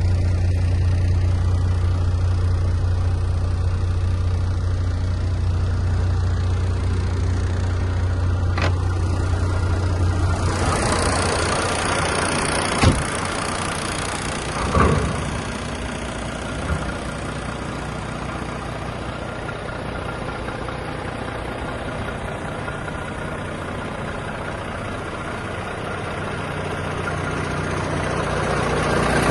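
Diesel engine of a 2011 Iveco AS440ST truck head idling steadily. About ten seconds in the sound changes from a deep hum to a fuller, brighter running sound, and three short knocks come a couple of seconds apart.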